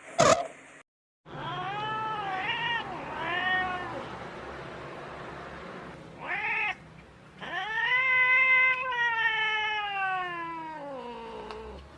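Domestic cat meowing: a few quick meows that rise and fall, then a short meow, then one long drawn-out meow whose pitch slides down at the end.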